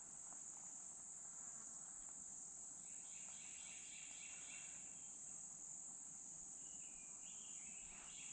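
Faint, steady high-pitched insect chorus, with a lower pulsing call joining about three seconds in and again near the end.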